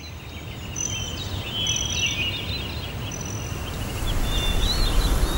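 Several songbirds chirping and whistling over a steady low rumble. The rumble swells about four seconds in while the chirps thin out.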